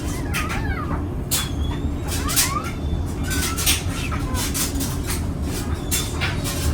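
Newborn pointer puppies giving thin, high squeaks and whines that rise and fall, over scattered clicks and rustles of handling and a steady low hum.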